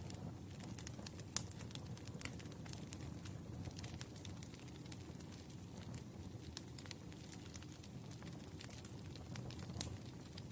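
Wood fire burning, with a steady low rumble and irregular crackles and pops; a few pops stand out, one about a second and a half in and one near the end.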